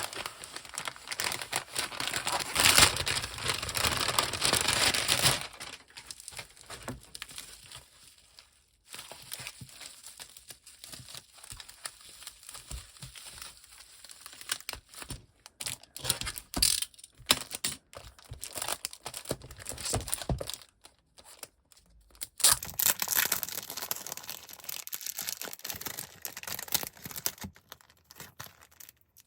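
Packaging of newly bought comic books being handled, crinkled and torn open by hand, in irregular bursts: louder at the start and again about three quarters through, with quieter rustling between.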